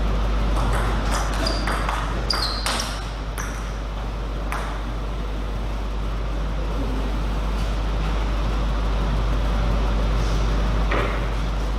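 Table tennis rally: a celluloid/plastic ping-pong ball struck by rubber paddles and bouncing on the table, a quick run of about ten sharp clicks in the first few seconds, then a few single knocks later, over a steady low hum of the hall.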